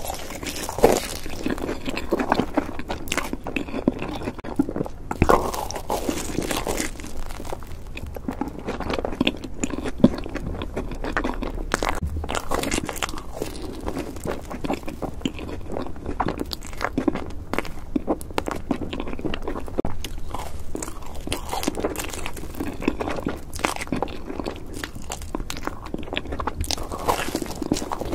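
Close-miked biting and chewing of torched marshmallows pulled off a skewer, with many sharp little crackles throughout.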